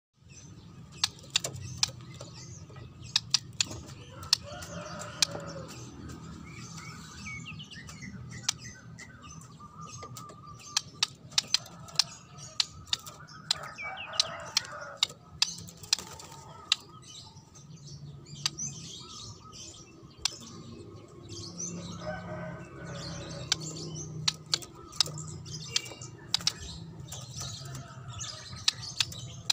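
Birds chirping faintly, with many short sharp clicks scattered throughout and a low steady hum beneath; a few longer calls stand out now and then.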